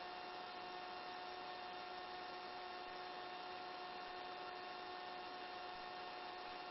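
Faint, steady electrical hum with a few constant whine tones: line noise on the helicopter's headset intercom audio, with no voices on the channel.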